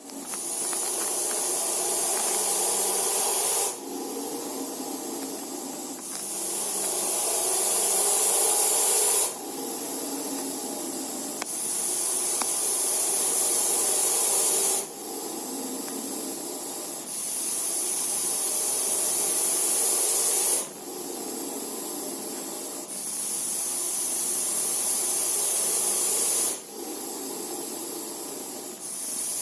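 Russell's viper hissing in a regular rhythm: a long, loud hiss of about three and a half seconds, then a shorter, quieter hiss of about two seconds, repeated five times. This is the snake's defensive hiss.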